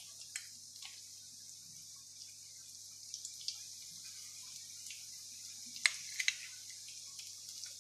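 Breaded ham-and-cheese balls frying in a small pan of olive oil: a steady sizzling hiss with scattered pops and crackles, and a few louder pops about six seconds in.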